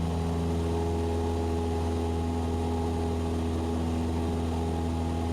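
Cessna 172SP's four-cylinder Lycoming engine and propeller droning steadily in level flight, an even, unchanging tone.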